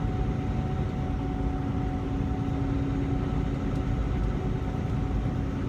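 Semi-truck tractor running bobtail, heard from inside the cab: a steady engine drone with road noise and an even low hum.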